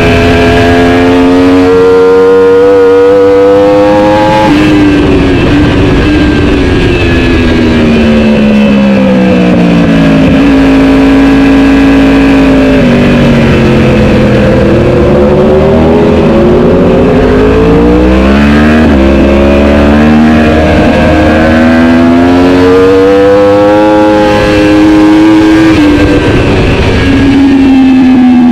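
Racing superbike engine at full race pace, revving up, then dropping sharply in pitch at upshifts about 4.5 and 19 seconds in, and winding down more slowly twice as the bike slows for corners before picking up again.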